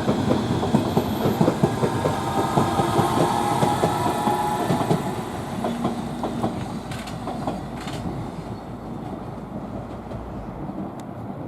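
London Underground District Line S7 Stock train rolling past, its wheels clattering over rail joints with a faint steady whine, the sound fading away through the second half.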